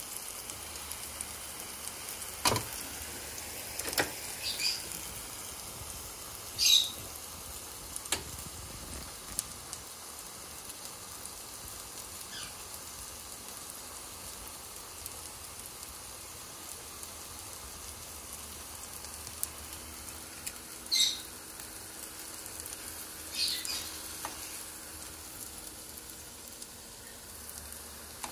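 Overripe plantain slices frying in oil in a pan: a steady sizzle with occasional sharp pops of spitting oil, the loudest about 7 seconds and 21 seconds in.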